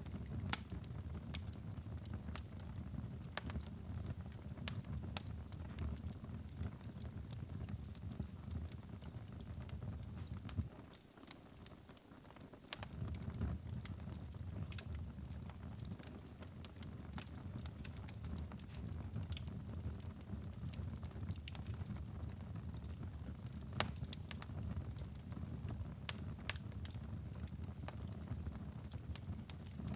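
Wood fire burning in a fireplace: a low steady rumble of flames with frequent sharp crackles and pops. The low rumble drops away for about two seconds near the middle, then returns.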